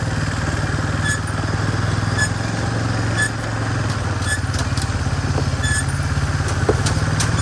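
Small mini-truck engine running steadily, with a short sharp click about once a second.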